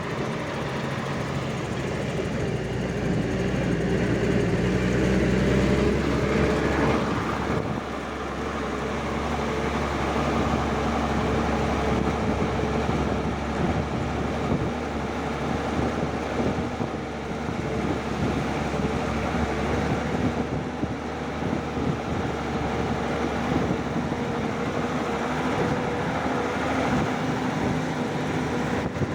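Vintage army 4x4 truck engine running, pulling harder over the first several seconds, easing off about seven seconds in, then running steadily.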